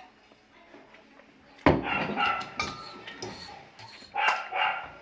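A dog barking: a quick run of barks about a second and a half in, then one more bark near the end.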